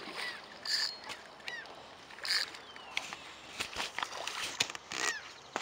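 Birds calling: several short, harsh calls, some sliding downward in pitch, every second or so, with scattered light clicks.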